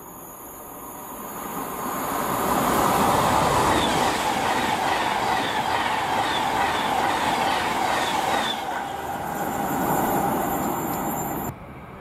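A train passing on the line, building up over the first two seconds, then a loud, steady rush with wheel-on-rail noise. It cuts off suddenly near the end.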